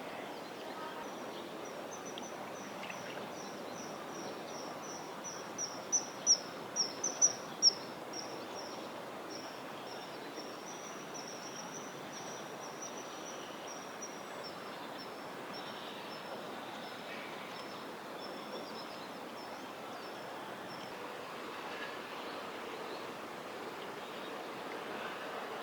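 Common kingfisher giving a long series of short, shrill, high-pitched calls, about three a second, loudest a few seconds in and then fading away over the next dozen seconds, over a steady background hiss.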